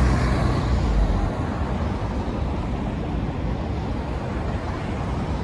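Electric passenger train running away along the tracks, its low rumble dropping away about a second in, over a steady hum of road traffic.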